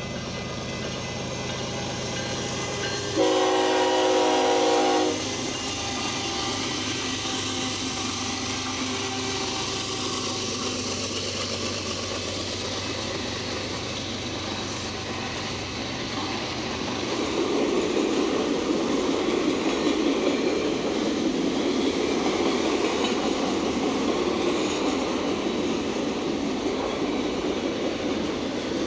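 Diesel freight locomotives of a BNSF manifest train approaching with a steady engine rumble, then one long horn blast of about two seconds a few seconds in. After that the freight cars roll past over the rails, louder from about halfway through.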